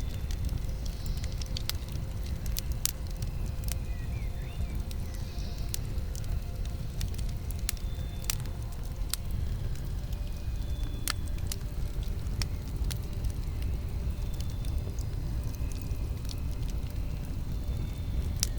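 Campfire burning: a steady low rush of flame with sharp crackles and pops scattered irregularly throughout.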